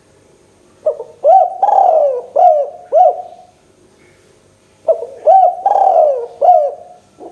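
Spotted dove (tekukur) singing: two phrases of about four or five low, hooting coos each, the second starting about five seconds in.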